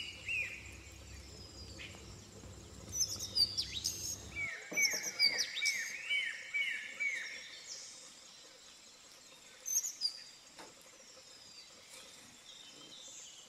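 Wild birds calling: scattered high chirps, with a run of about five quick, repeated down-slurred notes about a third of the way in.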